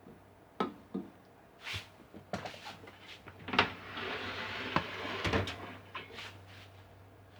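A string of knocks and clicks from parts being handled, with a scraping, rustling stretch in the middle, over a faint steady low hum.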